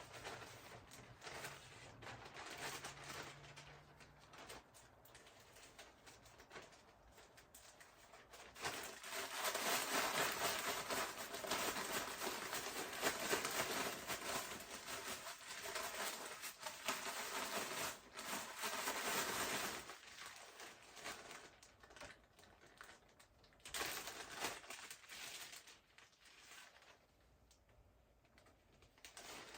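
Fish deep-frying in oil, a steady sizzle full of fine crackles that grows much louder for about ten seconds in the middle, then dies back down.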